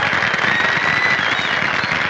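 Steady crackling clatter of an audience applauding, on an old film soundtrack.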